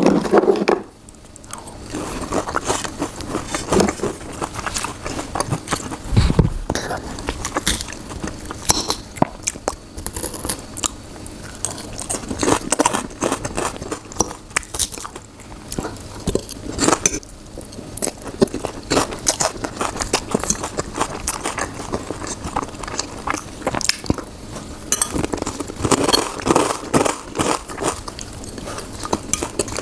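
Close-miked chewing and biting of food, a dense run of small, irregular crunchy clicks and mouth sounds.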